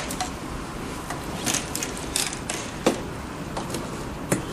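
Irregular clicks, taps and scrapes of hands and tools on small metal and plastic parts as the heat detector of a sublimation heat press machine is swapped, over a steady background hiss.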